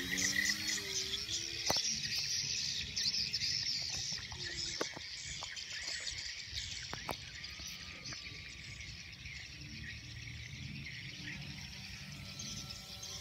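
Crickets chirping in a dense, steady high hiss. Just after the start the Extra 300S plane's engine drone drops in pitch as it passes and fades. The engine drone comes back near the end, with a few sharp clicks in between.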